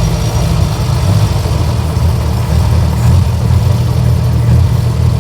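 1924 Austin Seven's small four-cylinder engine running steadily with its revs held up so that it does not stall.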